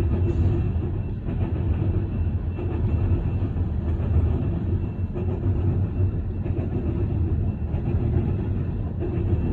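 Loaded coal train rolling past: a steady low rumble of wheels on rail, with a faint steady high whine above it.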